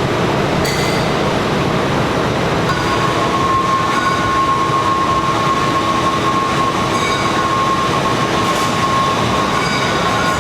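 Steady, loud machine noise, a continuous rumble and hiss, with a steady whine joining about two and a half seconds in.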